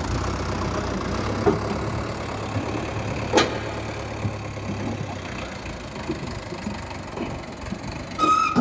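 Sonalika DI 750 tractor's diesel engine idling with a steady low hum that fades about five seconds in, with a few sharp knocks and a brief high tone near the end.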